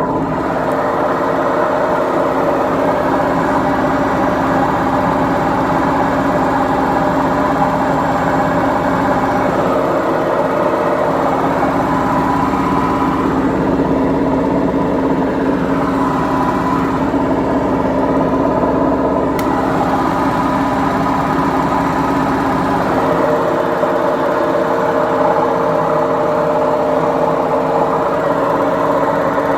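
Beko washing machine running, a loud steady drone with several held tones over a rough noise, the sound of its worn drum bearings.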